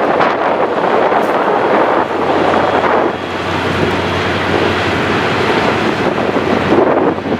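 Passenger train with diesel locomotives rolling across a steel truss bridge: a steady noise of the train, mixed with wind buffeting the microphone.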